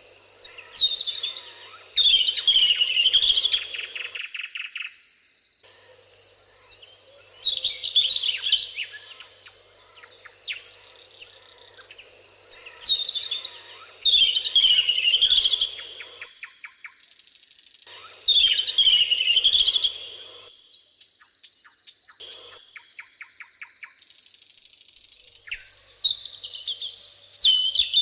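Songbirds singing in the open: a loud, warbling phrase of sweeping notes every five seconds or so, with quieter chirps between. A thin, steady high-pitched tone runs underneath.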